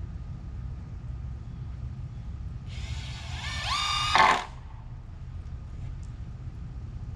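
A power drill's motor spinning up: a whine that rises in pitch, holds briefly and stops suddenly after under two seconds, over a steady low rumble.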